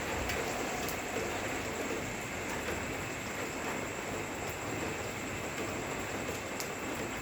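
Rain falling steadily, an even rushing hiss with a few sharp drip ticks scattered through it.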